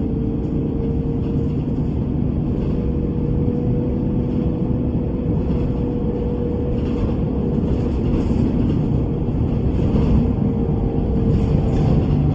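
A bus running: steady engine and road rumble with a steady whine that dips slightly near the end, and faint intermittent rattles.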